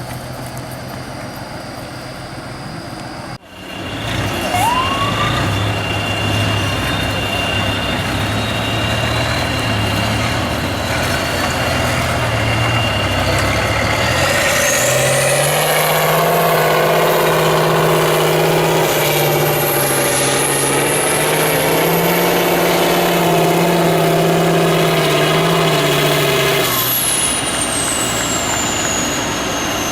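Heavy off-road trial truck's diesel engine working hard, its pitch rising and falling as it revs, with a high whistle sweeping up and down over it. The sound breaks off briefly about three seconds in.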